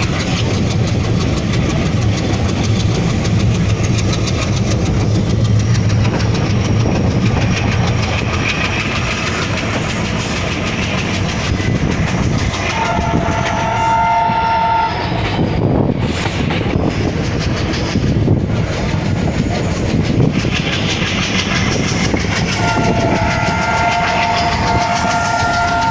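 Train running with a steady rumble and rail clatter; the locomotive horn sounds twice, a chord-like blast of about two seconds in the middle and a longer one starting near the end.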